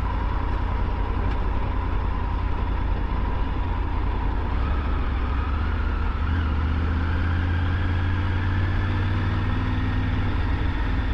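Triumph Tiger 900 GT's three-cylinder engine running steadily while riding, with road and wind rumble, heard from the rider's position. The engine note rises gently a little before halfway through.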